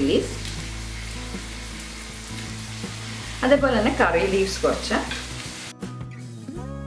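Sliced onions, chillies and garlic sizzling as they fry in oil in a pan, stirred with a steel ladle, louder for a moment a little after the middle. Near the end the sizzle cuts off and acoustic guitar music begins.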